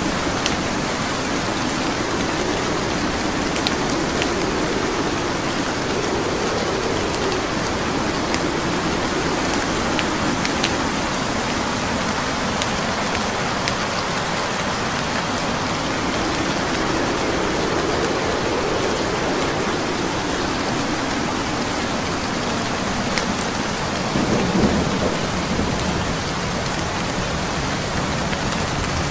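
Steady rain, with scattered sharp crackles from burning wood logs. Low rumbles swell and fade a few times, the strongest near the end.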